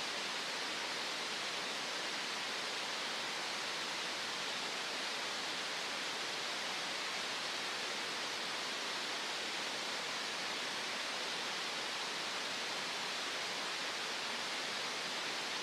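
Green noise: a steady, unchanging hiss, brightest in the upper middle of the range and with little bass.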